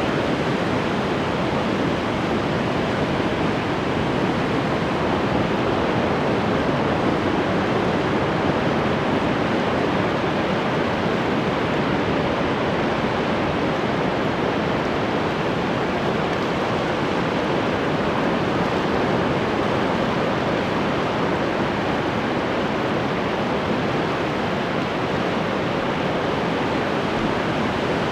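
Ocean surf: a steady, dense wash of breaking waves with no distinct individual breakers.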